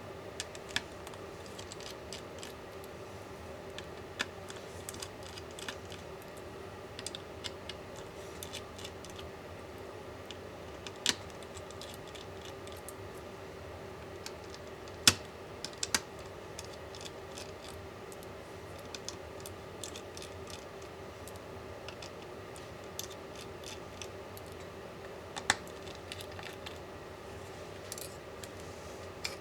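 Small hand tools and laptop parts clicking and tapping irregularly as an Apple MacBook Pro 16-inch (2021) is taken apart. A few sharper, louder clicks stand out, over a steady faint hum.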